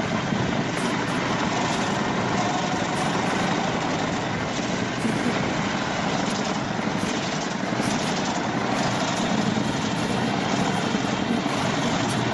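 Large industrial wood-processing machine, such as a chipper or grinder, running steadily: a dense, even mechanical noise that does not change.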